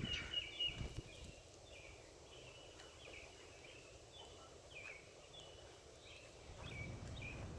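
Faint outdoor ambience with a small bird's short, high chirps repeating about twice a second, a few soft clicks in the first second, and a low background rumble that grows slightly near the end.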